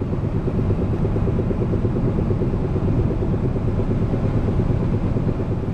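Four-wheel-drive pickup truck driving, heard from inside the cab as a steady running noise with the rapid knocking of its worn CV joints, which are due to be replaced.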